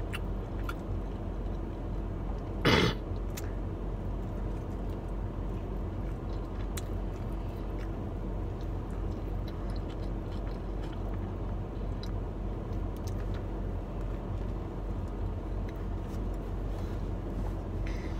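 A person chewing food, with faint soft mouth clicks, over a steady low hum. A brief sliding vocal sound comes about three seconds in.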